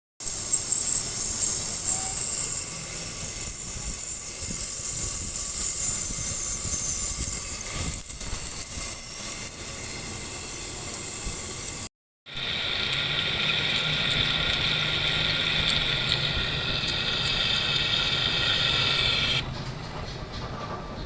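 Metal lathe cutting a workpiece. First comes a loud, steady high hiss of the cut. After a short break, the cutting tool squeals steadily with several high tones over a low hum, and the squeal stops near the end.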